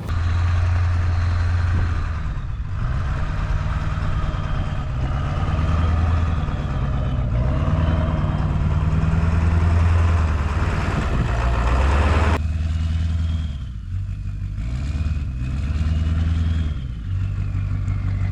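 Diesel engine of a converted ambulance running after a cold start, its pitch rising and falling several times as the engine speed changes. The background sound changes abruptly about twelve seconds in.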